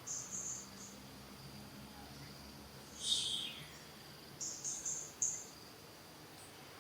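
Insects chirping in short, very high bursts in a few quick groups, over a faint, steady high insect drone.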